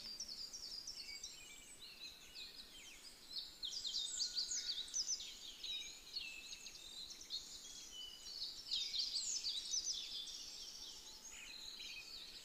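Birds chirping: many quick, high chirps and short downward-sweeping calls overlapping, busiest in two stretches about three and nine seconds in.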